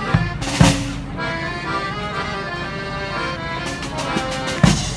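Brass band playing live: horns hold sustained chords, punctuated by bass drum hits with a cymbal crash just after the start and another bass drum and cymbal hit near the end.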